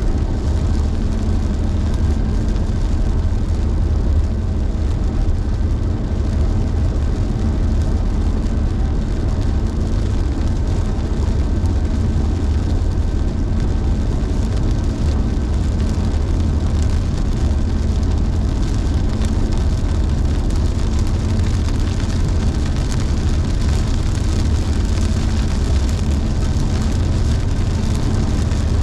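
Car driving on a rain-soaked road: a steady low rumble of tyres and engine with a hiss of rain and wet-road spray, the hiss growing stronger in the last third.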